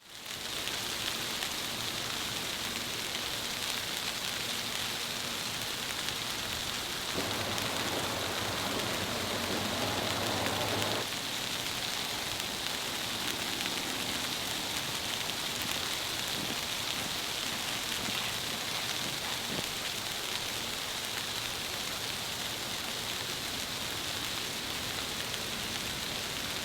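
Steady hiss of storm precipitation pattering on surfaces, with no pauses. About a quarter of the way in, a low rumble joins for about four seconds and cuts off abruptly.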